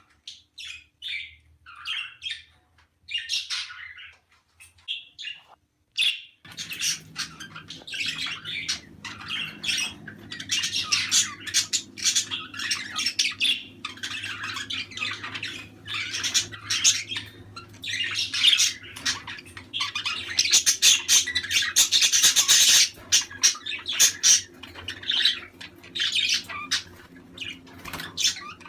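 Budgerigars chirping and warbling: scattered calls at first, then about six seconds in a dense, continuous flock chatter starts, with a low steady hum behind it.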